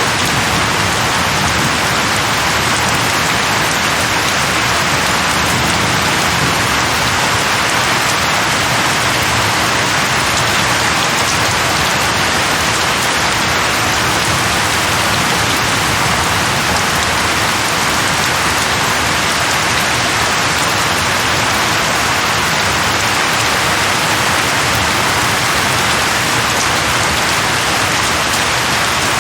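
Steady rain falling on a surface: an even, unbroken hiss of drops at a constant level.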